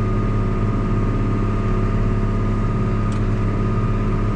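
John Deere farm tractor's diesel engine running steadily, heard from inside the cab: an even drone with a thin steady whine over it.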